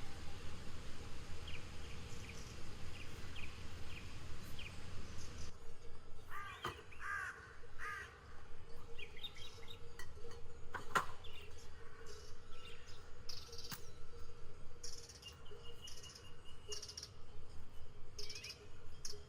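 Forest birds calling, with short chirps throughout and a few harsher arching calls about six to eight seconds in. A background hiss drops away about five seconds in, and there are a few sharp clicks, the strongest about eleven seconds in.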